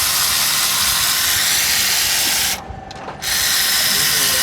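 Loud, steady hiss of rushing compressed air, like an air blow gun. It cuts off for about half a second some two and a half seconds in, then starts again.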